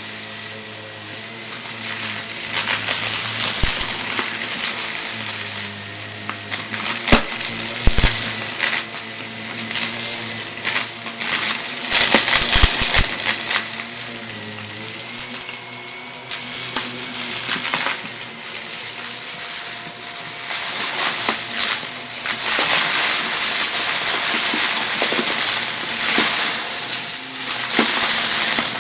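Vacuum cleaner running while it sucks up dry crunchy debris: a dense crackle and rattle of bits pulled into the cleaner over the steady whine of the motor.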